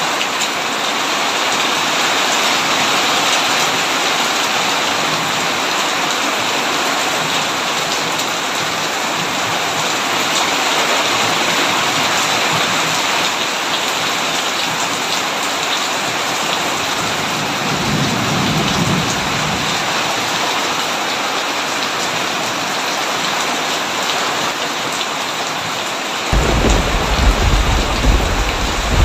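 Heavy rain drumming steadily on a tin roof. A soft low rumble of thunder comes about two-thirds of the way through, and a louder roll of thunder breaks in suddenly near the end.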